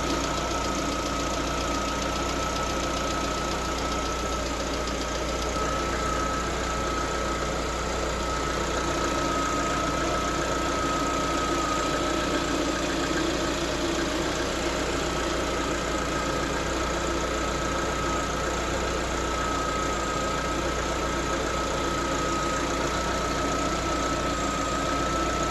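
Lada Vesta petrol engine idling steadily with a fast light ticking from the hydraulic valve lifters, which the owner hears during warm-up between about 60 and 90 °C: the lifters have started knocking at around 45,000 km. A steady high whine runs underneath.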